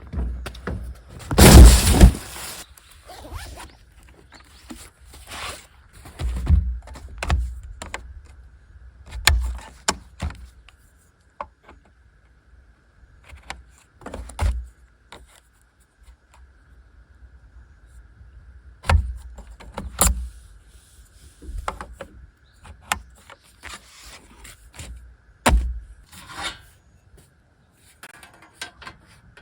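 Small folding camp tables being unfolded and set out by hand: irregular knocks, clicks and scrapes of light metal and plastic parts, with a loud rustling clatter about a second and a half in.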